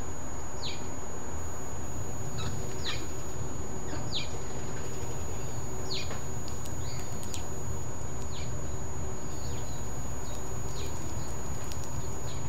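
Birds chirping: short, high, falling chirps repeated irregularly about once a second, over a steady low rumble of background noise.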